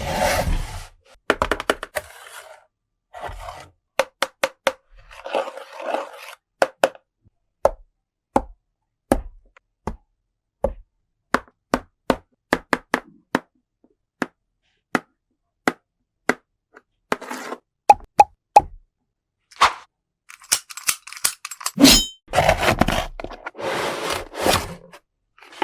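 Hard plastic toy pieces being handled: a long run of small sharp clicks and knocks, several a second in places, with short spells of scraping and rustling near the start, about six seconds in and near the end.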